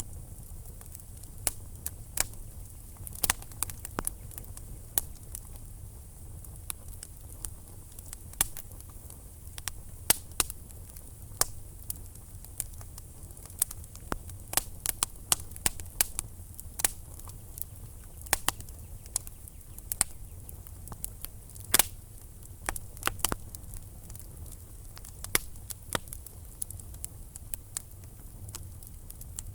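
Wood fire in a fireplace: burning logs crackling and popping at irregular intervals, several sharp pops a second, over a steady low rumble of the flames.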